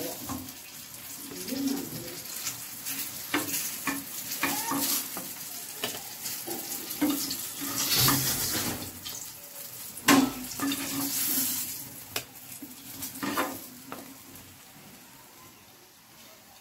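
Brinjal slices sizzling in hot mustard oil in a frying pan, with the knocks and scrapes of a steel spatula as the finished pieces are lifted out. The sizzle dies down toward the end.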